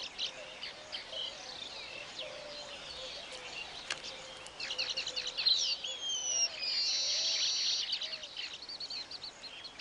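Weaver birds chattering: many overlapping high chirps and whistled slides, growing busier and louder in the second half, with a buzzy trill about seven seconds in.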